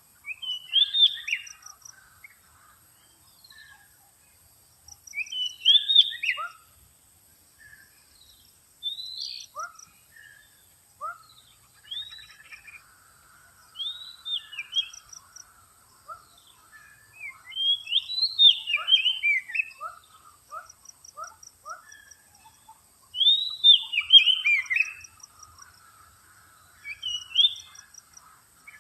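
Oriental magpie-robin singing: loud phrases of sliding whistled notes every few seconds, with quieter short chirps in between. A faint steady high hiss runs underneath.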